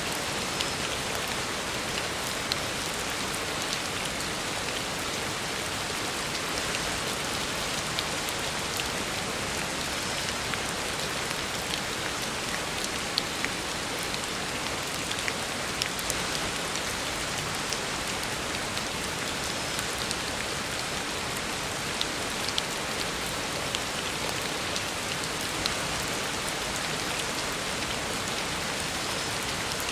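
Heavy rain falling steadily on a road, an even hiss with frequent sharp drop ticks.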